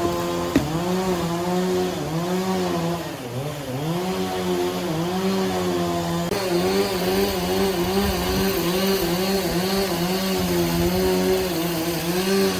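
An engine-powered saw running steadily as it cuts wood, its pitch sagging and recovering every half second to a second as the cut loads the engine.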